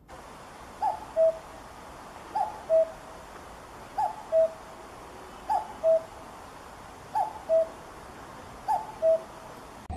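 Common cuckoo calling its two-note "cuck-oo", a higher note dropping to a lower one, six times at an even pace of about one call every one and a half seconds, over a faint steady hiss.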